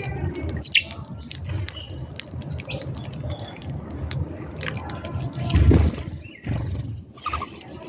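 Birds chirping and calling in many short, high notes over a steady low rumble, with a louder low rushing sound for about half a second midway.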